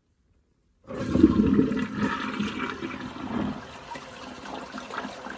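Convenient Height toilet with a 22-inch bowl flushing, its water rushing noisily through the bowl. The flush starts suddenly about a second in, is loudest just after it starts, and then eases off.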